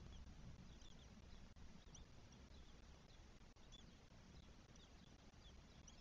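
Faint, short high-pitched bird chirps, several a second, over a low steady rumble.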